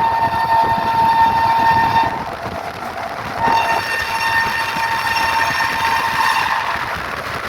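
Train horn sounding in two long, steady blasts, the first ending about two seconds in and the second starting a second later and running for about three seconds, over the steady noise of a train.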